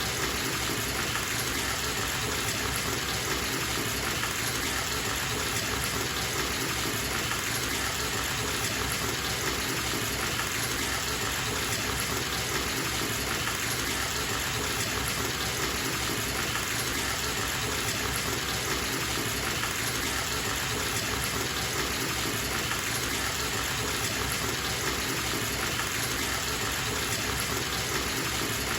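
Bathtub filling from a running tap: a steady gush of water pouring into the tub, even and unchanging.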